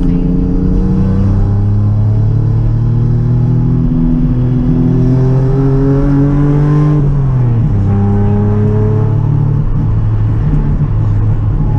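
Rally car engine heard from inside the cabin, pulling hard with the revs climbing steadily for about seven seconds, then dropping sharply and holding fairly steady afterwards.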